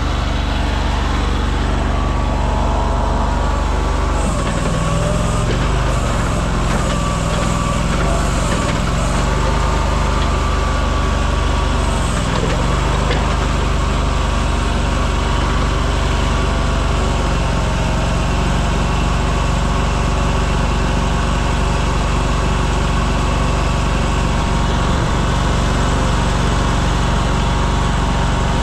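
A motor vehicle's engine running steadily with a low, even hum, shifting slightly in pitch a few times.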